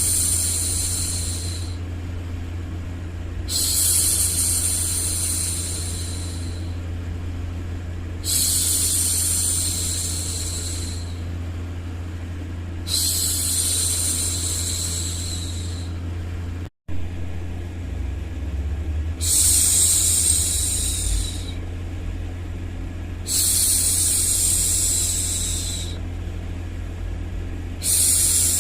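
A woman's voice making long, slow 'shhh' hushing sounds to soothe a baby, each lasting two to three seconds and repeating about every four to five seconds, over a steady deep rumbling background noise. The sound drops out for an instant about two-thirds of the way through.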